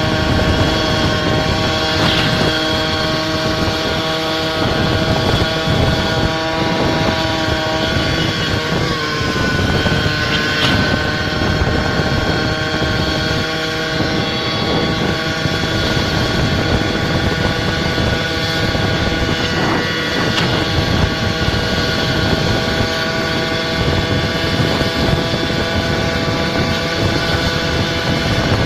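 Small engine of a goped-style motor scooter running steadily under way, its note dipping slightly about nine seconds in as the throttle eases, with wind buffeting the microphone.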